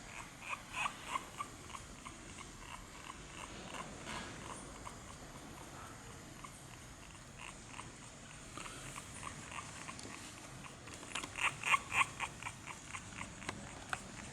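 French bulldogs giving short, high squeaking yips in quick runs of a few a second, loudest near the end.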